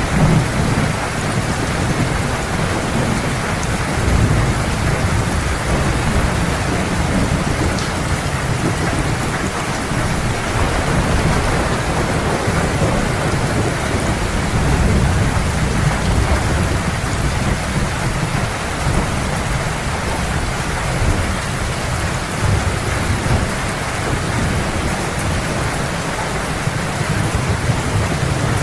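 Steady heavy rain, with low rolling thunder rumbling underneath that swells and eases throughout.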